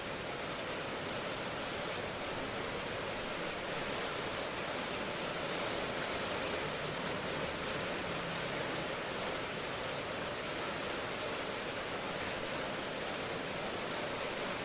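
Steady rain ambience: an even hiss of rainfall with no distinct drops or breaks.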